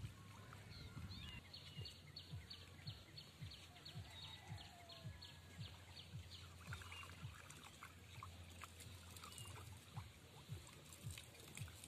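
Faint bird calls: a fast run of short high chirps, about four a second, for some five seconds near the start, with a few scattered chirps after it, over soft low taps and a low rumble.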